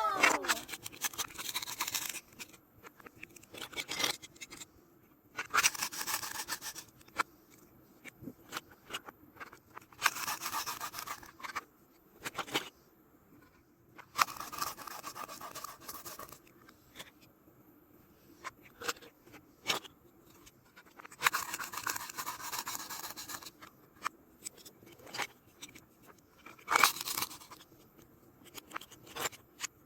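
Plastic toy fruits and vegetables being cut with a toy knife, the pieces ripping apart at their Velcro joins: a series of rasping tears, each a second or two long, with small clicks and taps of plastic between.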